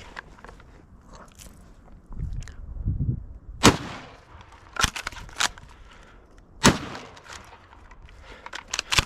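Three sharp shotgun shots, the second about a second after the first and the third nearly two seconds later, each ringing out briefly; a low rumble of wind or handling comes just before them.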